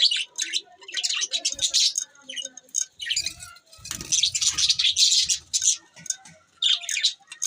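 Budgerigars chirping and chattering in quick, high-pitched bursts, with a few dull low thumps in between.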